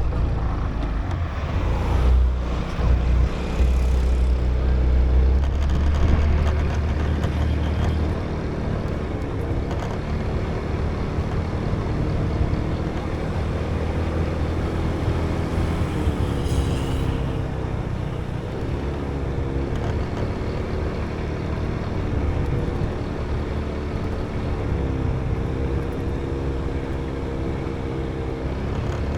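Motorbike engine running while being ridden, its pitch dipping and rising several times as the throttle and speed change, over a steady low rumble.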